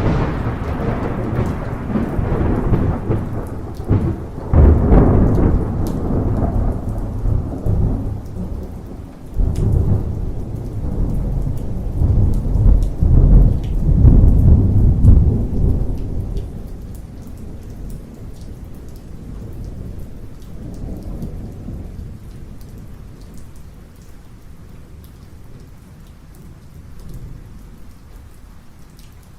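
Thunder rumbling over steady rain, loudest about five seconds in and again from about ten to fifteen seconds, then dying away after about sixteen seconds to rain with a few fainter rumbles.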